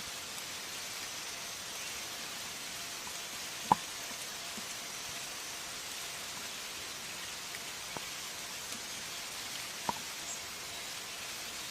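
Steady rain-like hiss with a few sharp drip-like clicks, the loudest about four seconds in.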